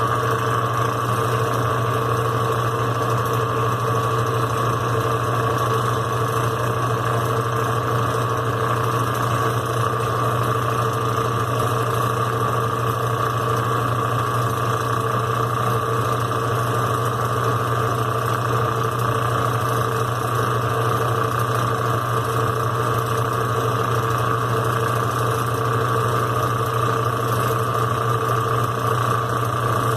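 Brastemp BWQ 24 washing machine running with a steady motor hum and whine that holds even throughout, with no pauses or changes in speed.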